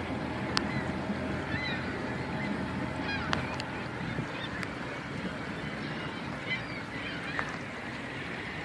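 A flock of birds honking and calling over and over, many short calls overlapping, over a steady low rumble, with a few sharp clicks.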